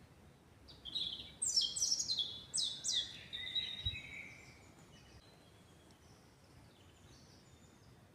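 A songbird sings one phrase lasting about four seconds: a quick series of loud notes, each sweeping down from very high, followed by a lower trill. Fainter high calls follow over a steady, quiet forest background hiss.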